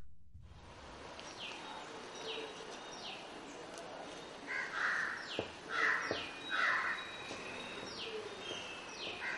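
Birds calling over a faint outdoor background: a small bird repeats a short falling chirp again and again, and three louder, lower, harsher calls come about five, six and seven seconds in.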